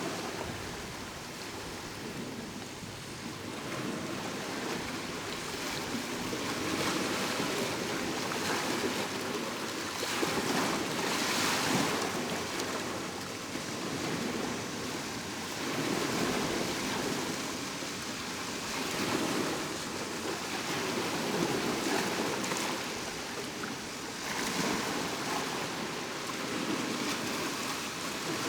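Ocean waves breaking and washing up the shore, the surf swelling and falling back every few seconds.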